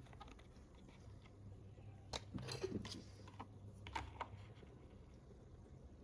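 A few faint clicks and rustles from handling a cup-noodle container and its packaging, about two seconds in and again around four seconds, over a steady low hum.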